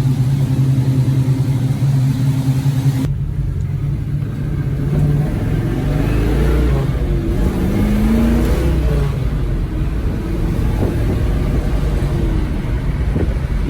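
Chevy 350 small-block V8 with a mild cam, Holley four-barrel, headers and two-inch exhaust with mufflers, running with a steady rumble; about three seconds in the sound changes abruptly to a lower, less even engine note that rises and falls in pitch.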